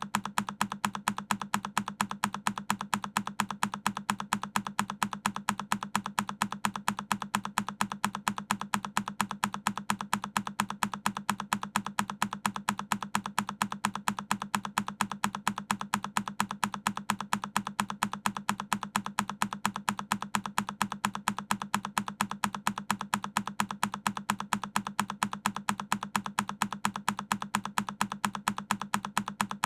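A single key on a Keychron K10 mechanical keyboard pressed over and over in an even loop, a crisp click repeating several times a second without change.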